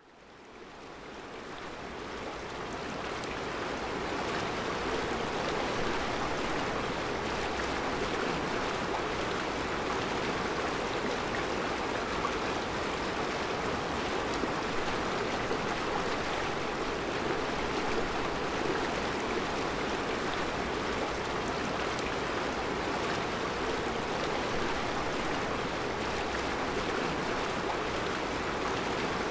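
Mountain river running over round rocks in a rocky bed: a steady, dense rushing of water. It fades in over the first few seconds, then holds even.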